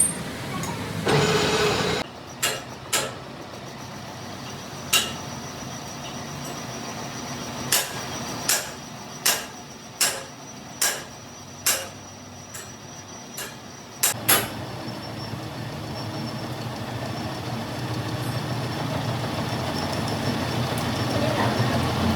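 About a dozen sharp, separate knocks, irregularly spaced half a second to a second apart, with a short noisy burst just before them. They are followed by a steady low drone of running machinery.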